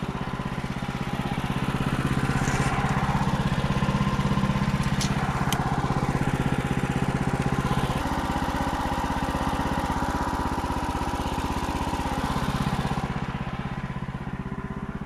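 Sawmill engine running steadily with an even throb, a little louder and busier from about two seconds in until near the end.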